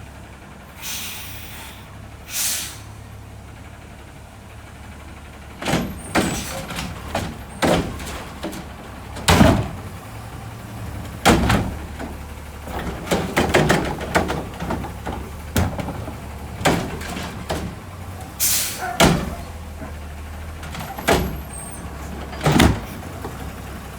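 Garbage truck running with its engine rumbling low. Two short air hisses come near the start, then a long irregular run of loud metal bangs and clanks: a cart being slammed and shaken against the hopper as the truck's arm dumps it.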